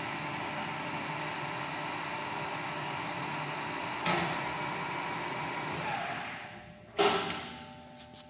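Kingston HD26160 gap bed lathe running with a steady mechanical hum and whine, with a sudden rise about four seconds in. The run dies away a little after six seconds, and a sharp clunk follows about seven seconds in.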